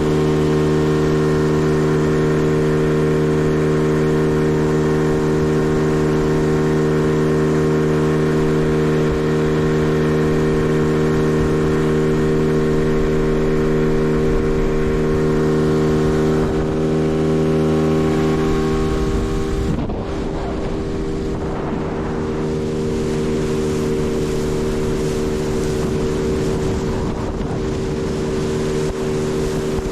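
A Tarpon 9.9 horsepower outboard motor runs steadily under way, pushing a small inflatable boat. About two-thirds of the way through the level dips a little, and the rush of water and wind comes up over the motor.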